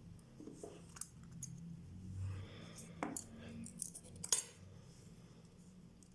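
Scattered small metallic clicks and clinks of a case-opening tool working a Vostok Amphibia watch's already-loosened case back, the loudest about four seconds in.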